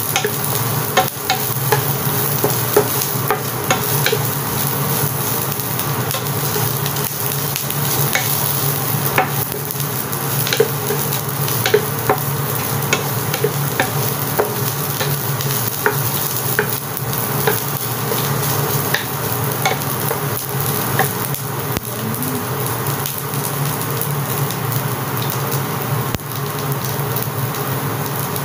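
Chicken pieces and chopped red onion sizzling in oil in a nonstick frying pan, stirred with a wooden spatula that scrapes and taps against the pan in frequent short clicks.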